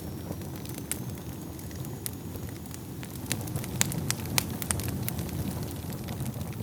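Wood fire burning in a fireplace: a steady low rumble of flames with sharp, irregular crackles and pops from the burning logs, coming thicker about halfway through.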